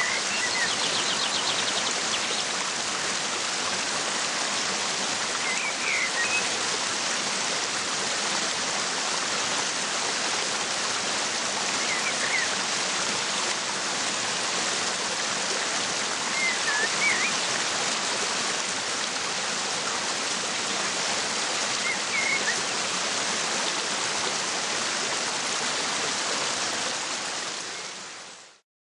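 Waterfall rushing steadily, with short bird chirps about every five or six seconds. The sound fades out near the end.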